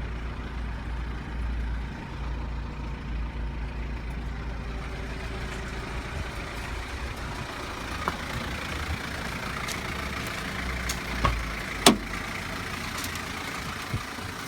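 Mazda Bongo's turbo-diesel engine idling steadily, with a few sharp clicks and knocks over it; the loudest is a single knock about twelve seconds in.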